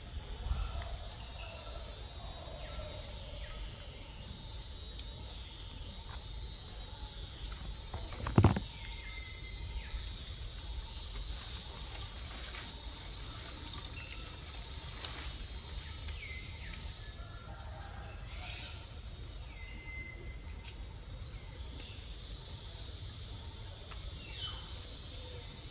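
Outdoor ambience with birds chirping: short, repeated high calls throughout. One loud thump about eight seconds in.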